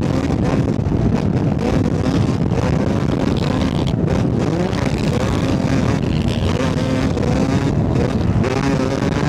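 Yamaha YZ250 two-stroke dirt bike engine running hard at riding speed, its revs rising and falling through the gears, with wind buffeting the microphone.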